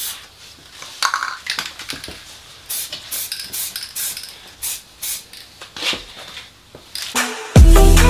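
Irregular metallic clinking and clattering, with a series of sharp knocks, then loud electronic music with a heavy beat cutting in near the end.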